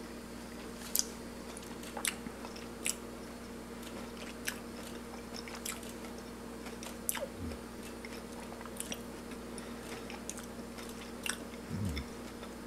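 A person chewing a mouthful of sautéed Good King Henry leaves, with scattered soft clicks and smacks from the mouth. A steady low hum runs underneath.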